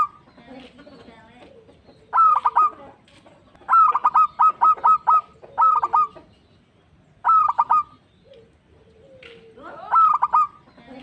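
Zebra dove (perkutut) cooing: about five loud phrases of quick, repeated staccato notes, one every second or two, the longest a run of about six notes. Softer bird calls sound between the phrases.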